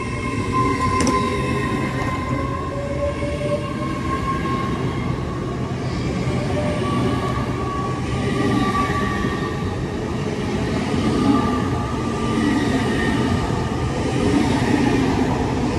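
Class 800 Intercity Express train pulling out of the station, with a whine that rises over the first few seconds as it picks up speed, over a steady rumble of the train moving.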